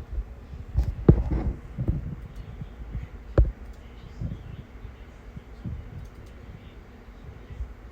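Soft low thumps and a few clicks at irregular intervals, the two loudest knocks about a second in and about three and a half seconds in.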